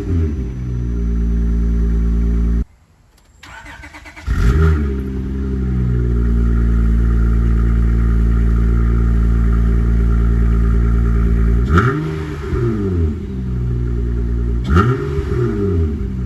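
Acura TL's V6 running through a straight-through exhaust with the mid muffler and resonator removed, holding a steady deep drone, then blipped twice near the end, the pitch rising and falling each time. The sound drops out for about a second and a half around three seconds in and comes back abruptly.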